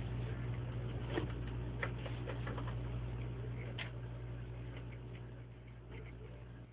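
Room tone with a steady low hum and scattered light ticks and clicks at an uneven pace, thinning out and getting quieter toward the end.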